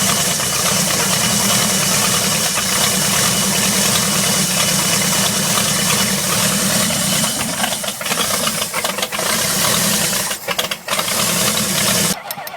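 Ford 427 FE V8 engine running loudly and steadily, then cutting off suddenly near the end.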